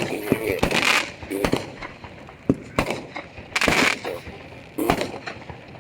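Fireworks and firecrackers going off in irregular sharp bangs, about one a second, some with a short hissing crackle after the bang.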